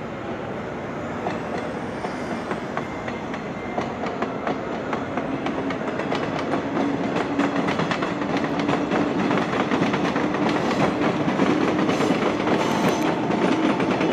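A train running along the station tracks, its wheels clattering over rail joints over a steady hum, getting louder as it comes nearer.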